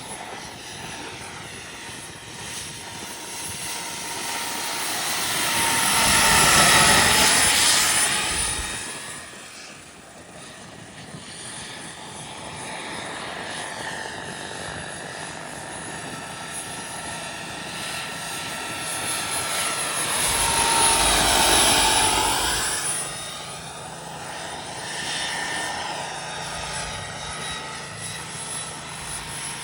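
Turbine-powered RC scale helicopter flying, its turbine whine and rotor noise swelling loud as it passes by twice, about a quarter of the way in and again about two-thirds in, the whine shifting in pitch with each pass.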